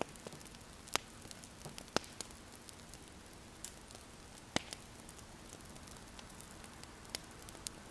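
Wood fire crackling: sharp pops every second or two, irregularly spaced, over a soft steady hiss.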